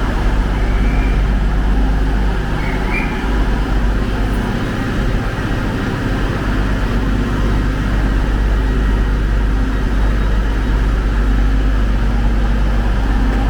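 A train's engine running steadily at a station platform, a low even drone, with a few faint short high squeaks about two to three seconds in.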